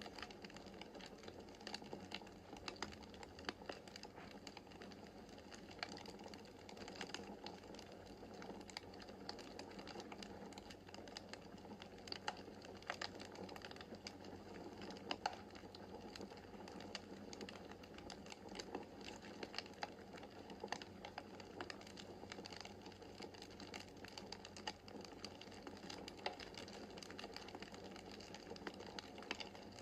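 Wood fire crackling in a fireplace: a soft steady hiss of flames with many small, irregular pops and snaps, one sharper snap about halfway through.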